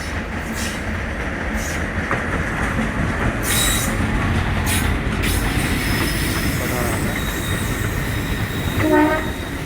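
Diesel-hauled passenger train running slowly into a station: a steady rumble of the locomotive and coaches, with two short hissing bursts about three and a half and four and a half seconds in. From about halfway a thin high-pitched squeal of the wheels sets in as the train slows, and a short pitched blast sounds near the end.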